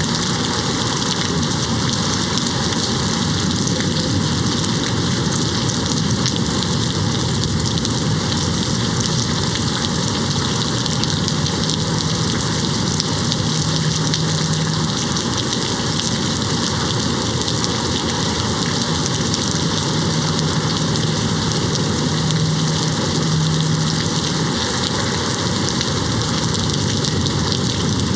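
Steady rain hitting a window, an even unbroken downpour. A faint low hum comes through twice, in the middle and later on.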